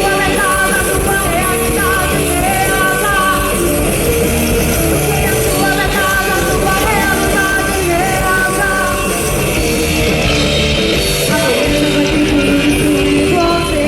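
Live rock band playing loudly, with distorted electric guitars, bass and drums, and a melodic line over them; a held chord rings near the end.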